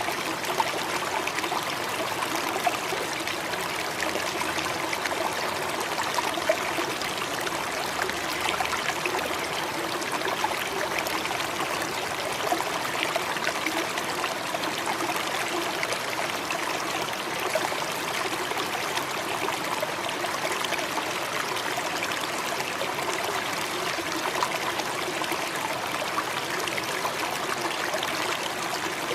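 Steady rush of flowing, falling water, an even unbroken noise without pauses.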